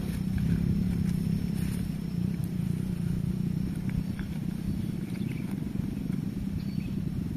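Steady low hum of a small engine running at an even idle, with a fast flutter.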